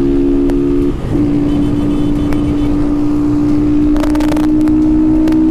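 Single-cylinder four-stroke engine of a Honda CG 160 Start with a tin Polimet aftermarket exhaust and no air filter, running under way. About a second in there is a short break, as at a gear change, after which the engine note is lower and climbs slowly.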